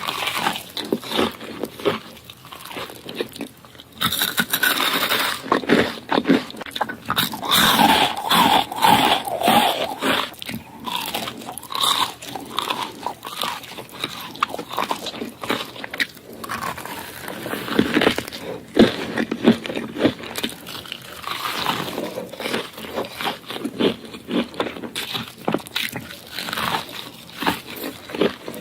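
A person eating close to the microphone: a dense run of bites, chewing and mouth smacks, busiest in the first third.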